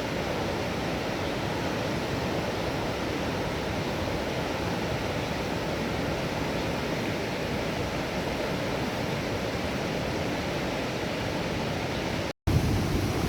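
Waterfall rushing: a steady, even roar of falling water. About twelve seconds in it cuts out for a moment and comes back louder, with more low rumble.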